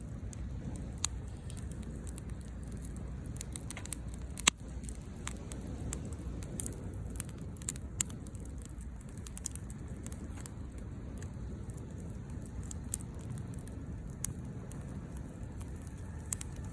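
Conifer firewood burning in a Picogrill fire pit, crackling with irregular sharp pops, the loudest about four and a half seconds in. A steady low rumble runs underneath.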